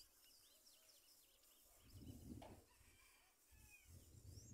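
Faint bird calls: a run of short chirps in the first second and a half and a rising whistle near the end. Low rumbles come in about two seconds in and again near the end.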